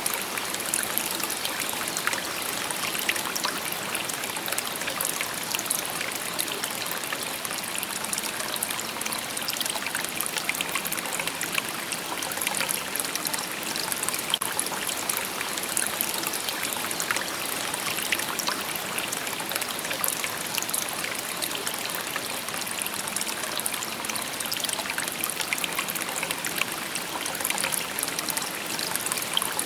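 Shallow river babbling over stones: a steady murmur of running water with constant small splashes and trickles.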